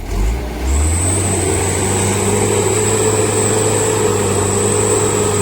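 Mitsubishi Canter truck's diesel engine revved up about half a second in and held at steady high revs, straining to pull a heavy 7-ton load of palm fruit through slippery mud. A high whine runs steadily over the engine note.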